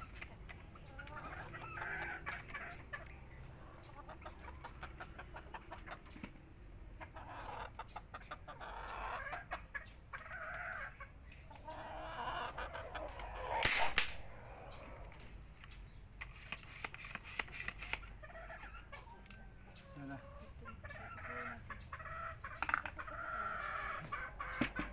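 Chickens clucking with an occasional crow. About fourteen seconds in there is one sharp crack, the loudest sound, and a quick run of clicks follows a couple of seconds later.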